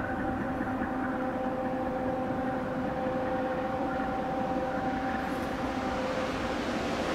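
Freight train rolling past: a steady rumble with a steady droning hum of several tones over it, the highest tone dropping away about six seconds in.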